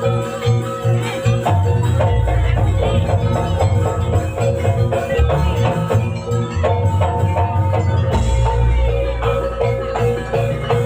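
Live jaranan Banyuwangi music from a gamelan-style ensemble: quick repeated struck notes and percussion over sustained deep bass tones.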